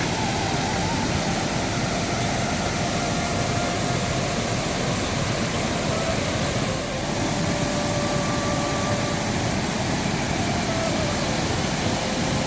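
Steady, loud hiss of heavy rain, with a faint, slow background-music melody of long held notes underneath.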